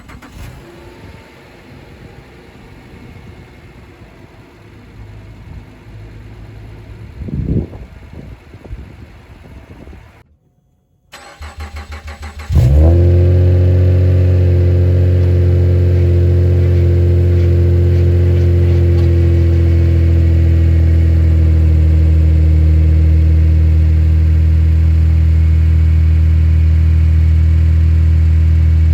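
Subaru Outback 3.6R flat-six engine cranking briefly and catching about halfway through, then settling into a loud, steady idle through the exhaust that eases slightly in pitch. Before this, separate from it, a quieter engine recording plays with one brief louder moment.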